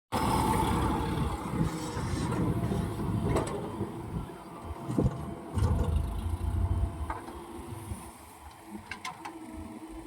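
Heavy machinery running with a low rumble and a few sharp knocks and clanks. It is louder for the first six seconds or so, then eases off.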